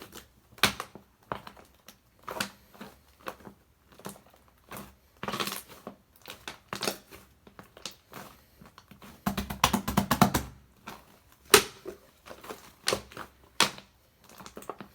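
Shaving-foam slime being squished and pressed by hand, giving irregular sticky pops and crackles, with a dense run of quick pops about nine to ten and a half seconds in.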